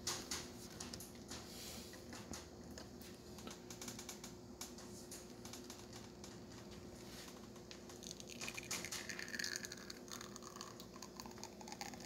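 La Pavoni lever espresso machine pulling a shot: faint, irregular pattering of espresso dripping and streaming into the cup, over a steady low hum.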